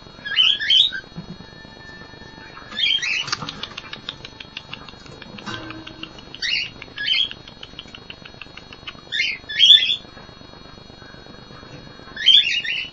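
Cockatiels calling: short, high pitched chirps, mostly in pairs, about every three seconds, with a faint rapid chatter after the second call.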